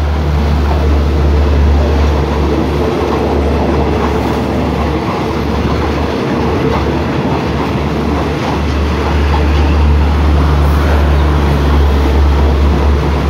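Passenger coaches of a departing express train rolling slowly past on the track, a steady noise of wheels running on the rails.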